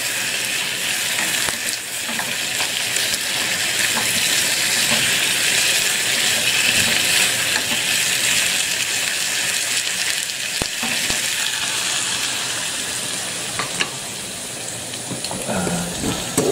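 Sliced water chestnuts and bamboo shoots sizzling in hot oil in a small saucepan while a wooden spatula stirs them, with a few light knocks of the spatula. The sizzle is steady and eases a little near the end.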